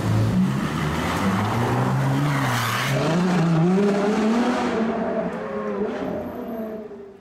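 Supercar engine running hard, its pitch swinging up and down, then fading as the car pulls away; the sound cuts off suddenly near the end.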